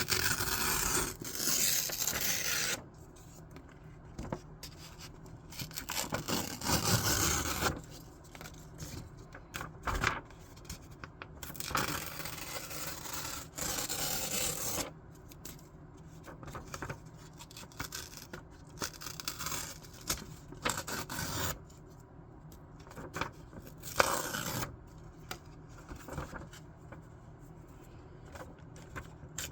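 Scissors cutting through paper, with paper being shifted and rubbed in between, in irregular stretches of a second or two.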